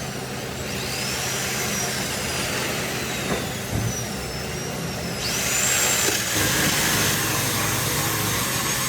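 A high-speed power tool running with a high whine over a steady low hum. The whine rises sharply about a second in and again near the middle, and each time slowly falls off.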